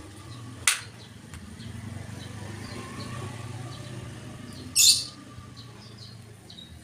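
Small birds chirping in the background, with a sharp click just under a second in and a short, loud, high-pitched rasping burst about five seconds in, under a faint low rumble.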